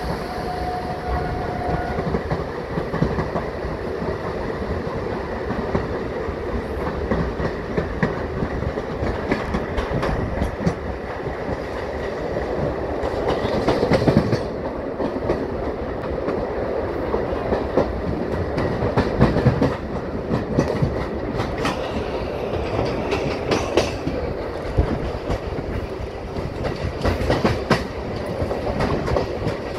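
Train running along the track, its wheels clattering over the rail joints in a continuous clickety-clack.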